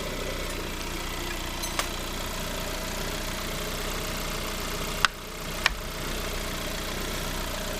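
Lada Granta's VAZ-21126 1.6-litre 16-valve four-cylinder engine idling steadily after a rebuild, with no knock or grinding now that the belt tensioner roller no longer rubs the crankshaft pulley. A sharp click about two seconds in and two more around five seconds in.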